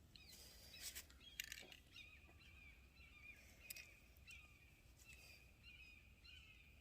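Faint birds chirping, a thin wavering twitter that runs on with a few soft clicks in between.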